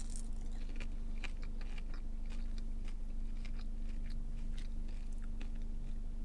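Close-up chewing and crunching of seasoned Popeyes french fries: a string of short, sharp mouth clicks over a steady low hum.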